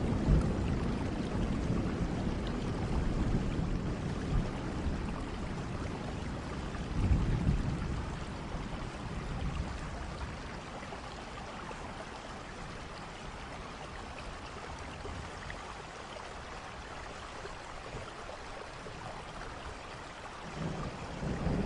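Steady rain with low thunder rumbling: a rumble fading over the first couple of seconds, another about seven seconds in, then a quieter stretch of rain before thunder builds again near the end.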